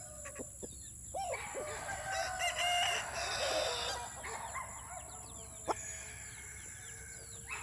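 Chickens in a coop: a rooster crowing from about one second in to about four seconds, with clucking, then high little chirps and a single sharp knock near the six-second mark.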